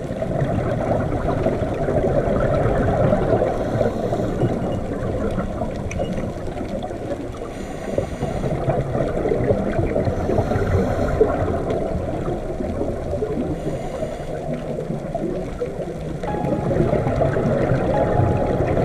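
Underwater water noise: a steady, dense rushing with some gurgling.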